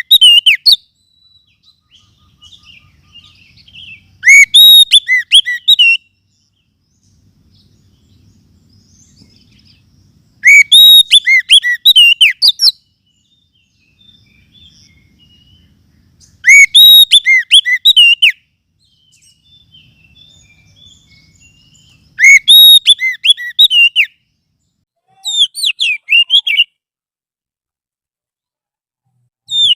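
Oriental magpie-robin (kacer) song played as a lure recording: a loud phrase of whistled notes lasting a second or two. The same phrase repeats about every six seconds, with short pauses between.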